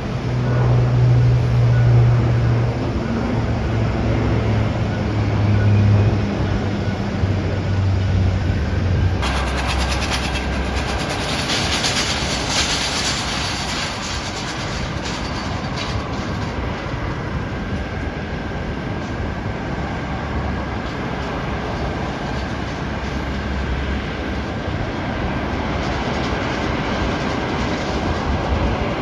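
Jet airliner engines running: a low engine hum stepping down in pitch, then about nine seconds in a loud rushing noise swells with a steady high whine that carries on to the end.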